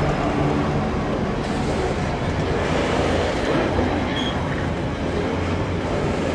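Heavy diesel-hauled freight train passing, a steady rumble of the locomotive and the rolling wagons on the rails.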